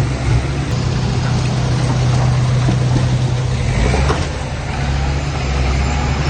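Heavy diesel engine of a construction vehicle, such as a dump truck or bulldozer, running steadily. Its note drops lower about four seconds in.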